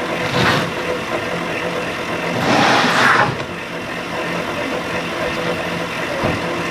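Engine idling steadily, with two brief louder rushing swells: one about half a second in and a longer one a little past the middle.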